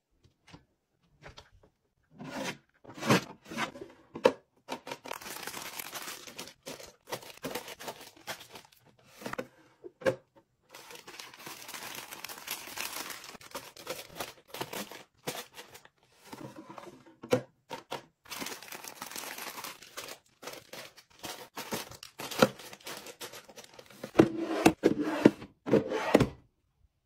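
Packaging being torn open and crinkled while restocking a kitchen, with stretches of rustling between many sharp clicks and knocks of containers being handled; the busiest, loudest handling comes near the end.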